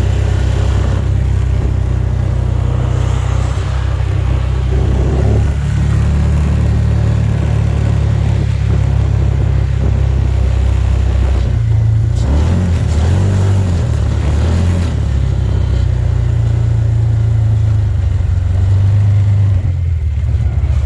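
Car being driven, with a steady low engine and road rumble. The engine note wavers up and down in pitch for a few seconds midway.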